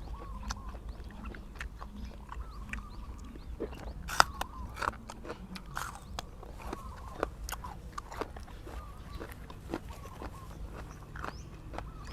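A person chewing and biting food close to the microphone: irregular crisp crunches and wet mouth clicks.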